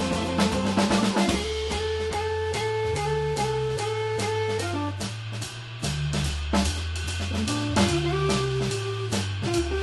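A jazz organ trio playing live: organ with a moving bass line and held notes, electric guitar, and a drum kit keeping time on snare, bass drum and cymbals.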